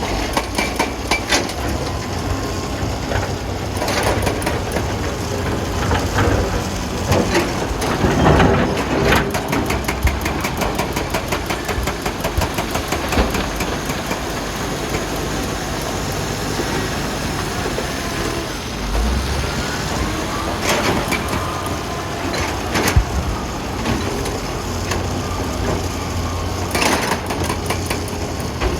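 Wheel loader's diesel engine running steadily, with several sharp knocks and clanks, the loudest a little over a third of the way in.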